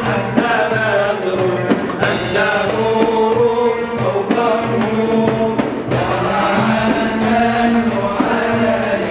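Arabic religious chanting (inshad) in praise of the Prophet: men's voices sing long, ornamented, held notes over a steady beat.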